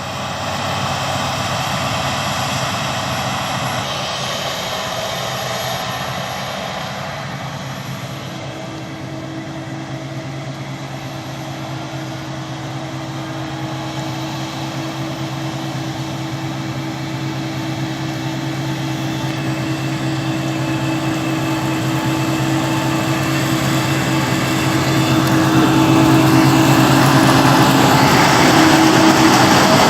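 Claas Lexion combine harvester running steadily with a droning engine hum, growing louder over the last few seconds as it comes closer.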